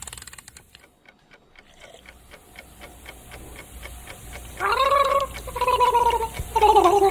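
Clockwork mechanism ticking steadily, then a worn-out mechanical songbird breaking into a warbling, gurgling tune in three short wavering phrases about two-thirds of the way through. It is a worn-out clockwork nightingale able to sing only its last few measures.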